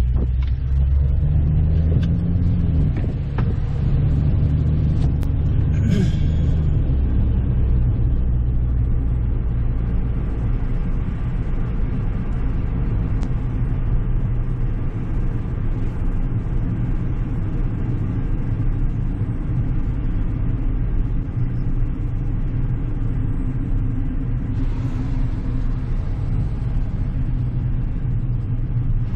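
Car driving, a steady low rumble of engine and road noise. The engine note rises and shifts during the first few seconds, then holds steady.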